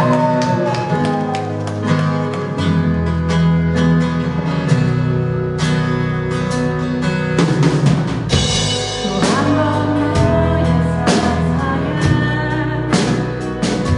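A band playing live: drum kit keeping a steady beat under guitar and bass, with a singer's voice coming in at times.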